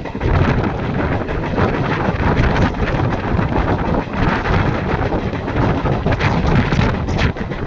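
Strong wind buffeting the microphone, a loud, steady rumbling roar with no speech.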